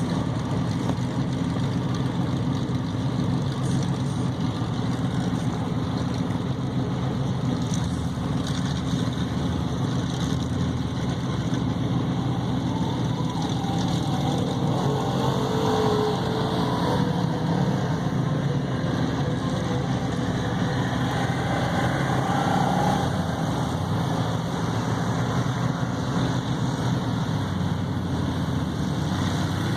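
Truck engines running steadily, with no break.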